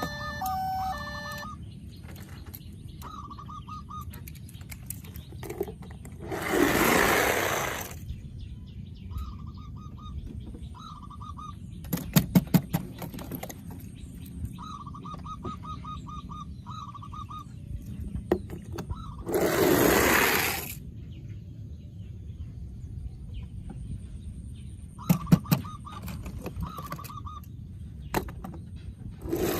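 Battery-powered toy vehicles playing electronic sound effects: short beeping tones that repeat in little groups, bursts of clicks, and three loud hissing whooshes of about two seconds each, roughly thirteen seconds apart.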